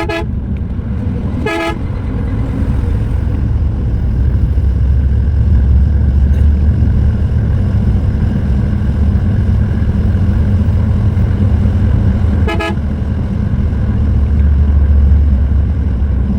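Scania coach's diesel engine and road noise droning heavily at highway speed, with three short horn toots: one at the start, another about a second and a half in, and a third about twelve seconds in.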